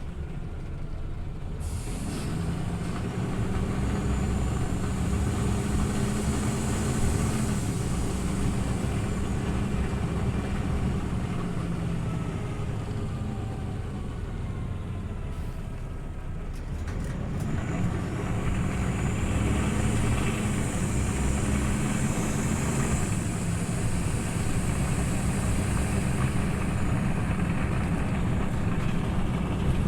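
Scania OmniLink CL94UB city bus engine pulling under power, its note rising and holding, easing off about halfway through and then picking up and pulling again.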